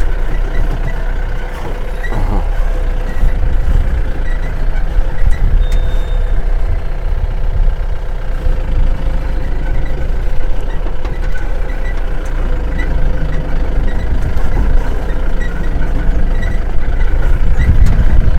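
Safari vehicle driving, heard from on board: a steady engine and road rumble with a light, regular ticking rattle over it.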